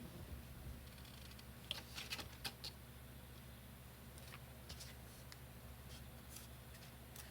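Faint paper-crafting sounds on construction paper: a quick run of five or six crisp snips or clicks about two seconds in, then a few lighter ticks, over a steady low hum.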